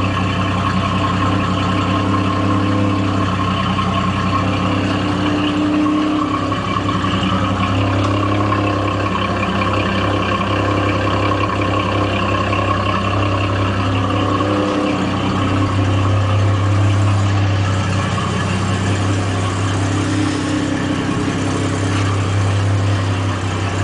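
1989 Jaguar XJS V12 idling low and unevenly, the engine speed hunting up and down, with a gurgling sound and a note more like a V8 than a V12. The owner is not sure the ignition timing is right after he overhauled the seized distributor. The low engine note dips briefly a little before two-thirds of the way through and returns stronger.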